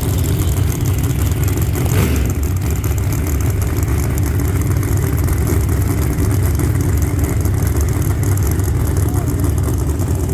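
Drag race car engines running at a loud, steady idle with no revving up, and one sharp crack about two seconds in.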